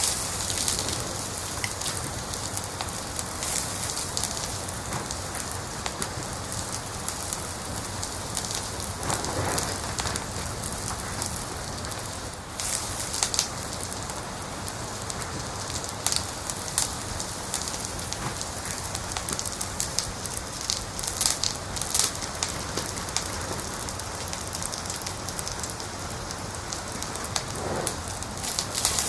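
Wood fire crackling in a fireplace: a steady hiss with scattered sharp pops and snaps, a few of them louder.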